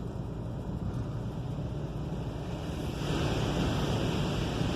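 Water spray from a Belanger Kondor touchless car wash drumming on the car, heard from inside the cabin as a steady hiss over a low rumble. About three seconds in the spray gets louder and brighter as the high-pressure rinse starts.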